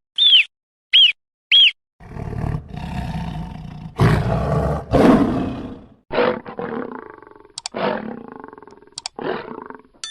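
Lion roaring: deep, rough roars that build to two loudest calls about halfway, then a run of shorter grunts that trail off. Three short, high chirps come before the roar, in the first two seconds.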